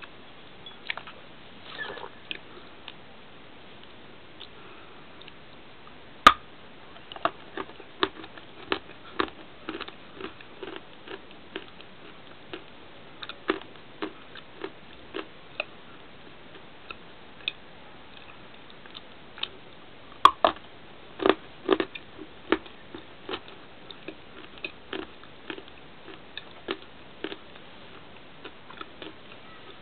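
Biting and chewing a crunch bar: a sharp snap about six seconds in and another about twenty seconds in, each followed by a run of irregular crisp crunches.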